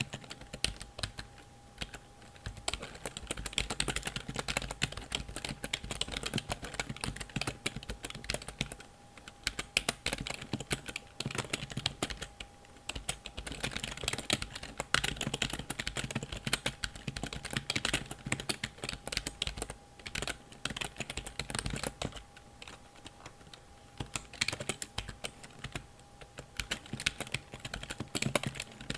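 Fingers typing on a computer keyboard, a dense run of rapid key clicks broken by a few short pauses.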